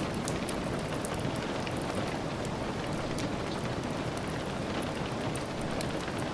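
Steady rain: a dense, even rush with many small sharp ticks scattered through it.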